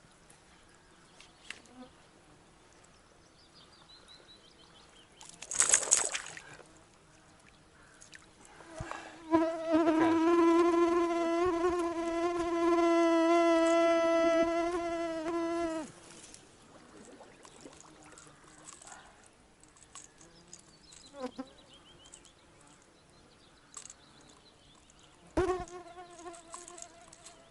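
A flying insect buzzing close to the microphone: a steady, even drone for about six seconds in the middle, coming back briefly near the end. A short rushing noise comes a few seconds before the first buzz.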